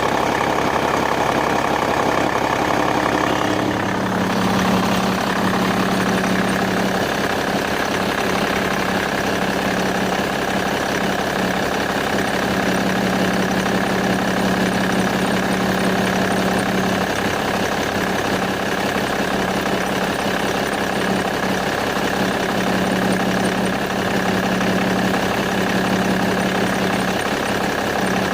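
BMW E61 engine running at idle with a noise the owner finds strange. About four seconds in the note changes and a steady low hum with a higher whine over it sets in and holds.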